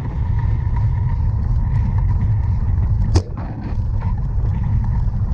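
Steady low rumble of wind and riding noise on a bicycle-mounted camera, with one sharp click about three seconds in.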